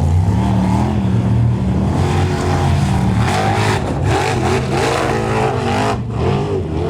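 A Formula Offroad hill-climb buggy's engine revving hard, its pitch rising and falling over and over as the throttle is worked.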